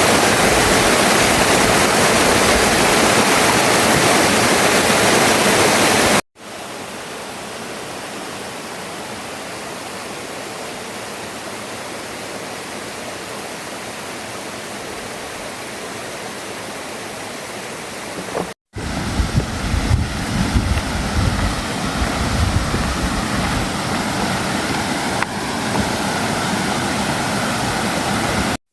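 Steady rushing of a stream or waterfall, heard in three shots cut together. The first is loudest and the middle one quieter. The last adds an irregular low rumble.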